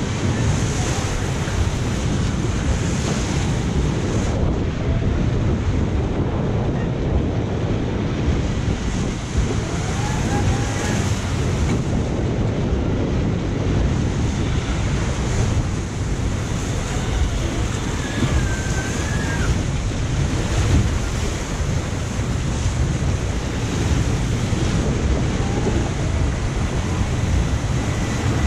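Steady rushing and splashing water from a Zierer jet-ski water ride in motion, with wind buffeting the microphone.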